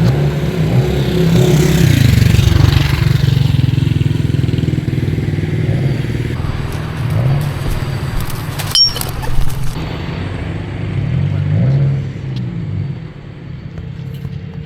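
Town street traffic rumbling, with a vehicle passing close and loudest about two seconds in.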